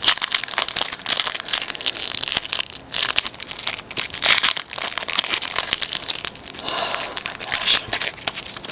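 Trading card pack wrappers crinkling and being torn open while the cards are handled: a continuous crackly rustle of small clicks, with a short lull about three seconds in.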